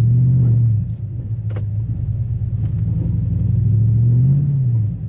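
Chevrolet Silverado pickup's engine pulling hard in deep snow: a low steady drone that surges twice, at the start and again from about three seconds in, with the pitch rising then dropping near the end. It is the sound of the truck bogging down and getting stuck in a drifted driveway.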